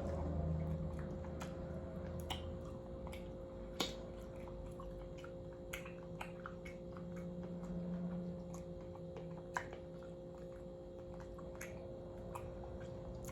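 A person chewing on unbattered fried chicken legs, with scattered small clicks throughout, over a faint steady hum.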